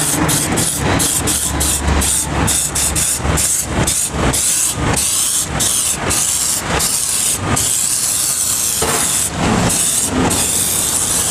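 Aerosol can of silicone tyre spray hissing in many short bursts, two or three a second, as the silicone is sprayed onto a worn tyre.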